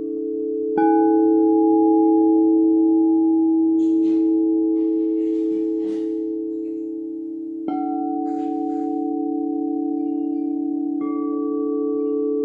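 Singing bowls struck three times, a few seconds apart, each strike ringing on in long steady overlapping tones, with the upper tone changing from strike to strike.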